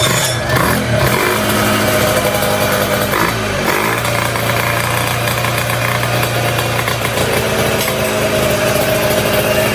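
Vespa two-stroke engine with a Quattrini 144 cylinder kit and 35 mm PWM carburettor running: the revs dip and pick up again about three and a half seconds in, then hold steady before shifting again near the end.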